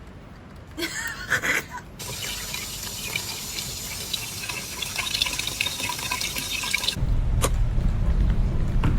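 Water running and splashing, like a tap filling a sink, for about five seconds. It cuts off abruptly into a low rumble with a single click.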